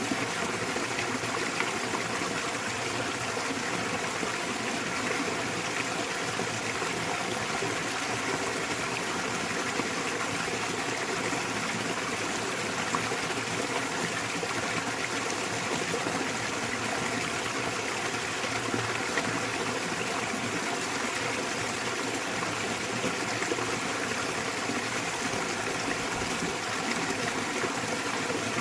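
Small waterfall in a mountain valley stream, water falling and splashing in a steady, unbroken rush.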